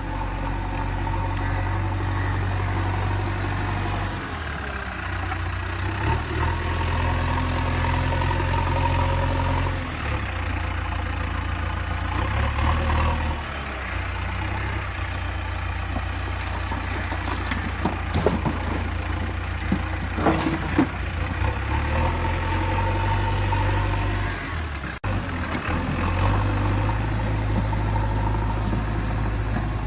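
JCB 3DX backhoe loader's diesel engine running, its engine speed shifting up and down several times. A few knocks and clanks come about two-thirds of the way in.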